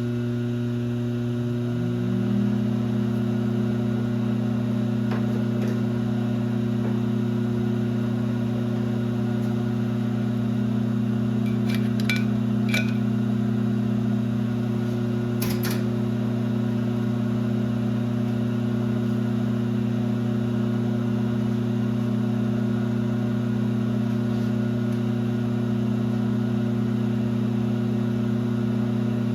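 1966 LeBlond geared-head lathe running with a steady motor and gear hum. One tone rises about two seconds in as it comes up to speed, and a few light clicks come near the middle.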